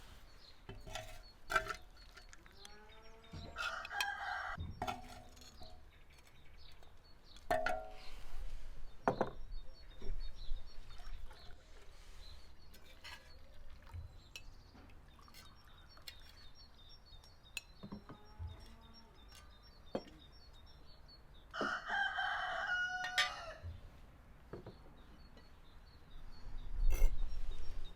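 Rooster crowing twice, once about four seconds in and again past twenty seconds in, with scattered sharp clicks and knocks between.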